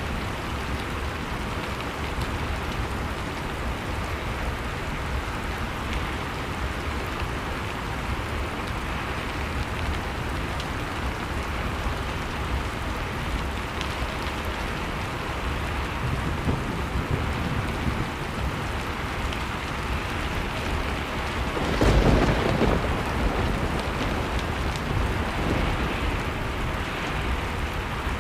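Steady blizzard wind noise with a fireplace crackling faintly now and then. About 22 seconds in, a louder rush swells for about a second and fades.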